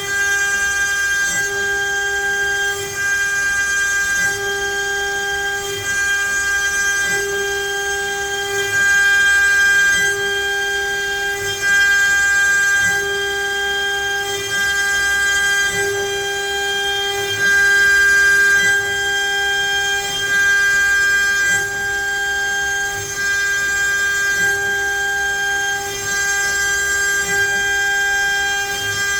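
CNC router spindle whining at a steady pitch while its bit cuts letters into pine, the tone swelling and easing every second or two as the cut changes.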